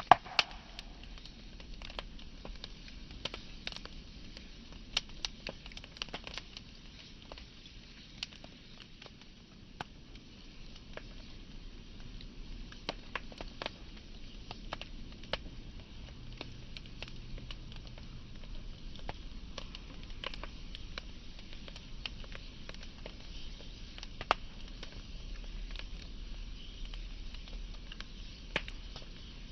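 Wood fire burning, with irregular sharp crackles and pops over a steady hiss of flame; the loudest pops come just after the start and about three quarters of the way through.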